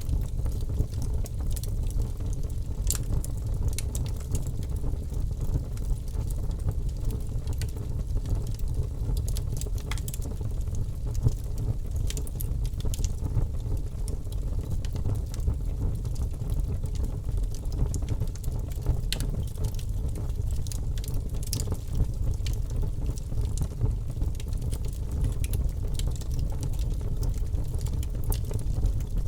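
Fire burning in a fireplace: a steady low rumble with irregular sharp crackles and pops scattered throughout.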